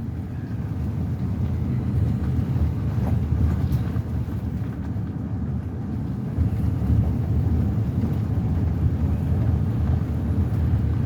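Truck driving slowly along a dirt road, heard from inside the cab: a steady low rumble of the engine and the tyres on the dirt.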